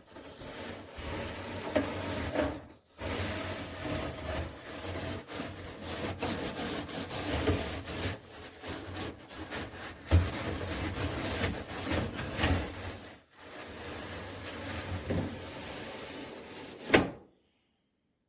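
Handling noise: irregular rubbing, scraping and light knocks. It ends in a sharp click near the end, after which the sound cuts off.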